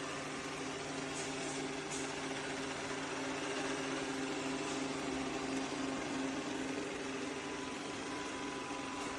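ECOVACS DEEBOT T80 Omni robot vacuum-mop running: a steady motor hum with a few low tones under a whirring hiss.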